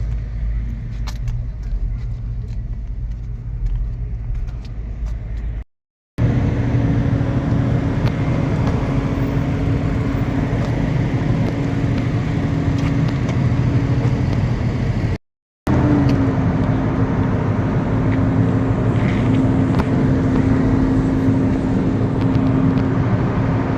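Truck engine running at a steady pitch, in three stretches split by two brief silent cuts.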